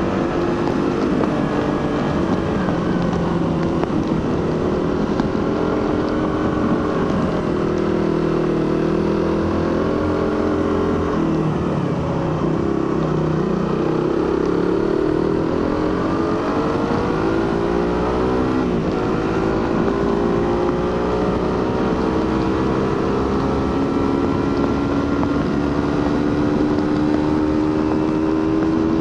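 Suzuki GSX-R150's single-cylinder 150 cc engine through its stock exhaust while riding. The revs rise and fall, dropping about twelve seconds in, climbing again soon after, then rising slowly and steadily near the end. Wind noise runs underneath.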